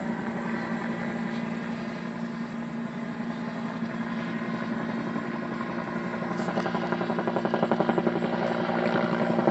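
Firefighting helicopter hovering low over a pond to dip its water bucket: steady turbine and rotor noise, with the rotor beat getting louder over the last few seconds.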